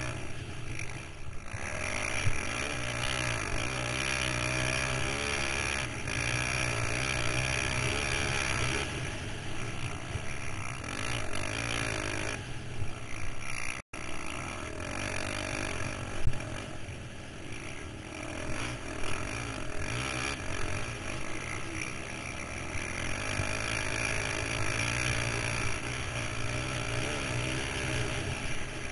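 KTM 525 XC quad's single-cylinder four-stroke engine running while being ridden, its pitch rising and falling with the throttle, with a split-second cut in the sound about halfway through.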